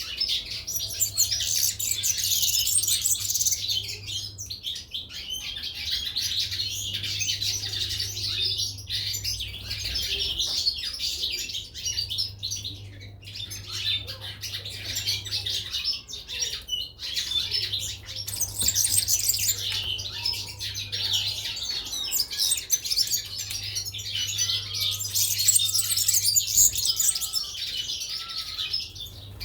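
Caged European goldfinches and canaries chirping and twittering together, a dense unbroken chatter of high calls.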